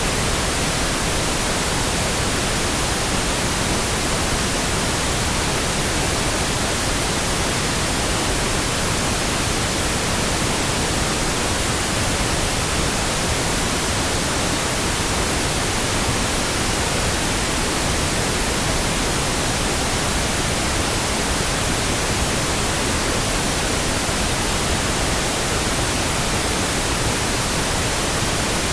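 Steady pink noise for sleep: an even, unbroken hiss with no change in level or pitch.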